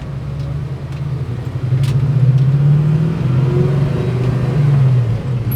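383 cubic-inch stroker small-block V8 of a 1969 Chevelle, through Magnaflow mufflers, accelerating on the road: it gets louder about two seconds in, and its note climbs, eases and climbs again.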